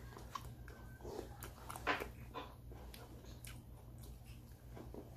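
Close-up wet chewing and lip-smacking on sticky sauce-glazed fried chicken, a string of short mouth clicks and smacks with the loudest about two seconds in.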